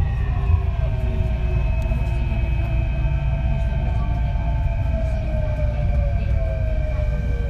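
Kintetsu 3220 series train's Hitachi IGBT VVVF inverter whining over the steady rumble of the running gear. The whine is several tones gliding slowly down in pitch as the train slows.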